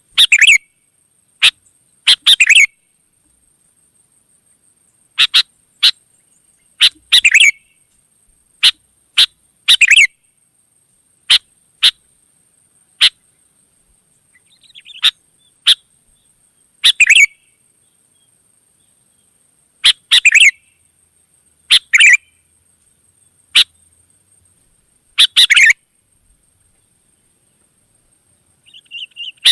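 Sooty-headed bulbul (kutilang) singing: short chirping phrases repeated every one to three seconds, with silent gaps between them.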